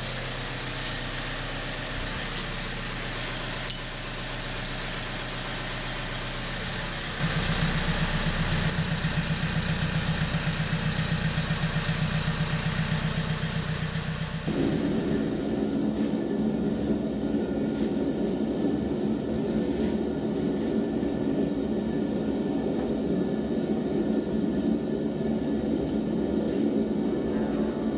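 John Deere tractor's engine running. About seven seconds in it gets louder with a fast, even pulsing, and about halfway through the sound changes abruptly to a steadier hum.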